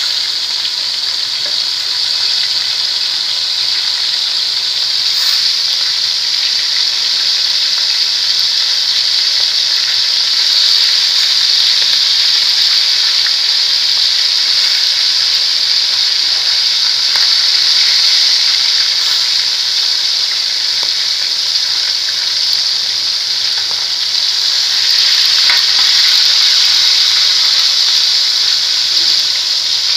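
Chicken pieces frying in hot oil in a steel pan: a steady, continuous sizzle.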